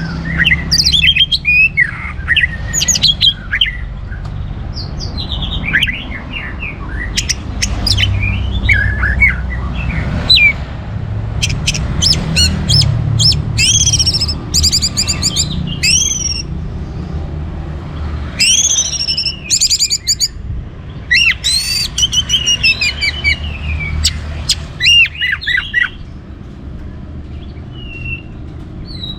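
Orange-headed thrush singing continuously: a fast, varied string of sharp whistled phrases, chattering trills and clicks, with a low steady rumble underneath.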